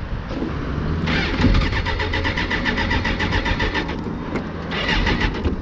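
Suzuki GSX-R sport bike's electric starter cranking its inline-four engine, a fast even chugging of about eight beats a second. It runs for about three seconds, stops, then cranks again briefly near the end without the engine catching.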